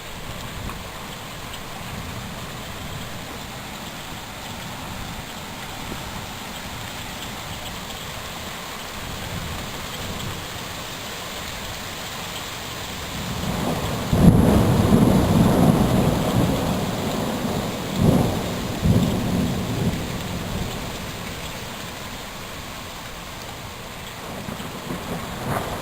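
Steady rain falling, with a loud, low rumble of thunder starting just past halfway that swells again briefly and dies away over several seconds.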